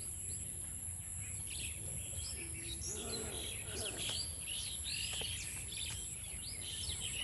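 Several wild birds chirping and calling in short, scattered notes, over a steady thin high-pitched whine and a low rumble of outdoor background noise.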